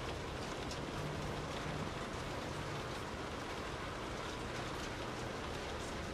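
Soft rain falling steadily: an even hiss with scattered individual drops.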